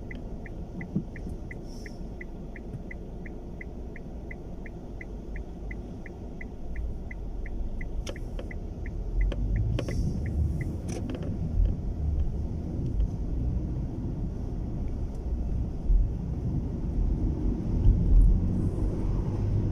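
Car turn-signal indicator ticking steadily, about two and a half ticks a second, over the low rumble of the car driving, heard inside the cabin. The ticking stops about eleven seconds in, and the road rumble then grows louder.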